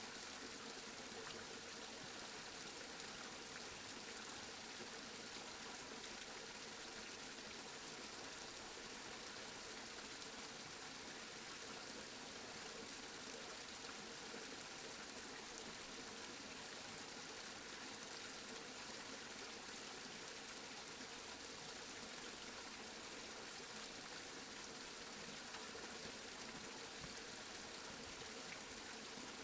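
Steady rainfall, an even hiss of falling rain with faint scattered drop ticks.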